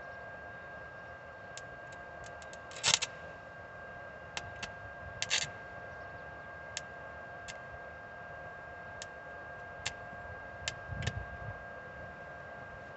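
Stick welding: a steady electric whine with scattered sharp clicks and two short crackling bursts, about three and five seconds in.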